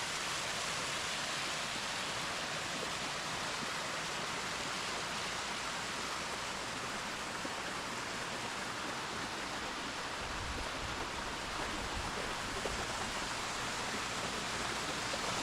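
Steady rush of flowing water in a trout hatchery's channels, an even hiss with no change in level. A brief low rumble comes in about ten seconds in.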